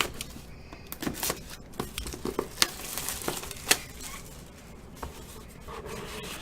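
A trading-card box being opened by hand: wrapping tearing and crinkling, with scattered sharp clicks and taps as the packaging and cards are handled.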